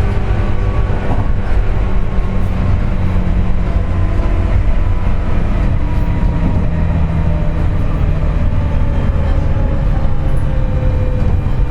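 Cabin running sound of a JR West 201 series armature-chopper EMU: heavy rail rumble with several whining tones that slowly fall in pitch as the train slows. The whine includes the loud "jet sound" that the uploader puts down to electrical erosion of the traction motor bearings.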